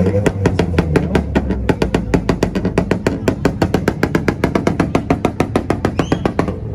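A car engine held on a two-step launch limiter, firing a fast, even string of sharp pops and bangs, about eight a second, over the low drone of the engine. The pops stop abruptly at the end.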